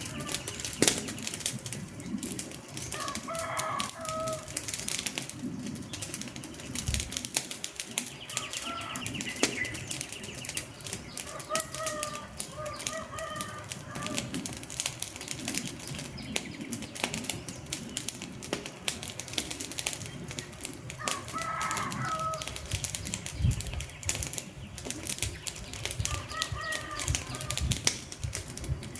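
Wood fire crackling with a dense run of irregular pops and snaps. Over it, a bird gives short calls every few seconds.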